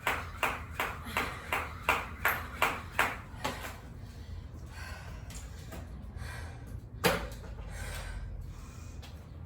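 Jump rope skipping: the rope slapping the floor and the feet landing, a steady rhythm of about three strikes a second that stops about three and a half seconds in as a 100-revolution set ends. After that it goes quieter, with one sharp knock about seven seconds in.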